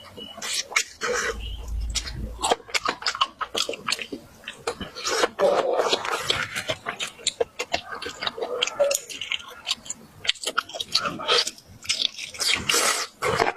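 Close-up mouth sounds of a person eating: irregular chewing, biting and wet smacking.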